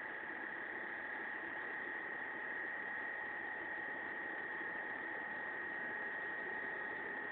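Hitachi window-type inverter air conditioner running, a steady high-pitched whine over the rush of its fan. This is the abnormal noise that sets in as the inverter compressor speeds up.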